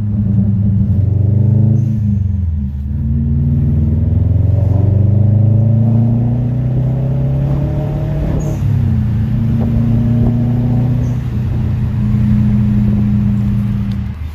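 2007 Subaru Legacy GT spec.B's turbocharged 2.5-litre flat-four running through a muffler-delete catback exhaust while driving: a deep exhaust rumble that rises in pitch as the car accelerates a few seconds in, drops at about eight seconds, then holds steady.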